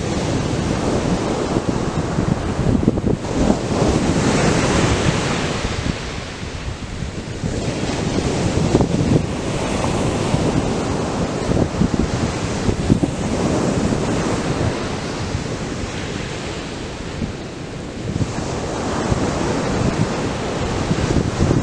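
Atlantic surf breaking on a sandy beach, waves crashing and washing in swells of hiss every few seconds over a constant low rumble, with wind buffeting the microphone.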